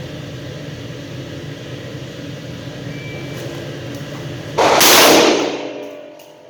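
A steady low hum, then a single loud gunshot about four and a half seconds in, fading over about a second.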